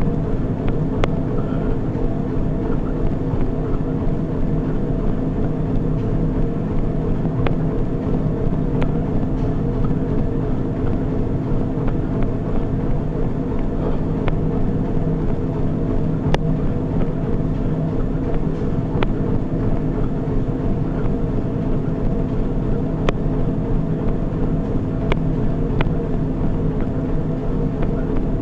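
Treadmill running with a steady motor and belt hum holding several even tones, and a few faint clicks here and there.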